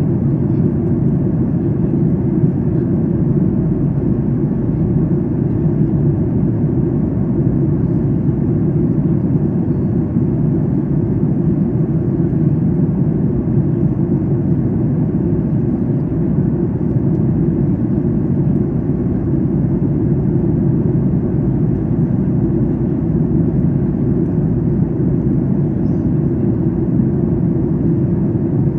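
Steady low roar inside the cabin of a Boeing 737 MAX 8 at cruise, heard from an economy seat: CFM LEAP-1B engine and airflow noise, unchanging throughout.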